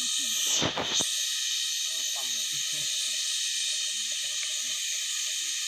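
Steady rushing hiss of flowing water, with faint distant voices and a brief bump of handling just before a second in.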